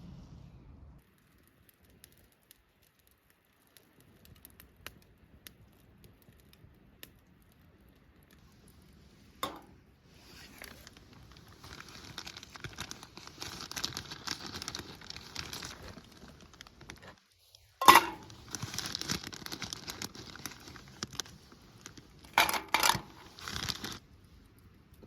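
Crinkling and rustling of something being handled, with a sharp click about two-thirds of the way through and a quick pair of clicks near the end.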